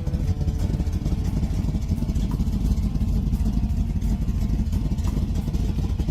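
Small-block Chevrolet V8 engine of a 1963 Chevy II Nova running, with a steady, pulsing exhaust note.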